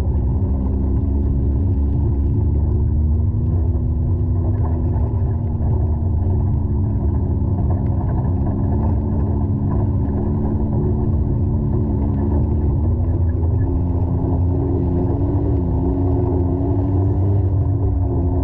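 Side-by-side UTV engine running steadily with a low rumble, its pitch drifting slowly up and down with throttle and rising slightly near the end. It sounds muffled, with little treble.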